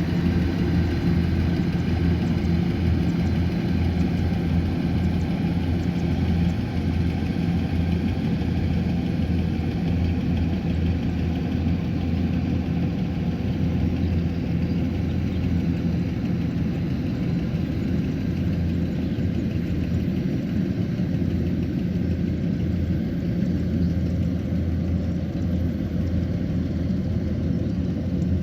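Kubota combine harvester running steadily, its diesel engine giving a constant low drone that holds the same speed throughout.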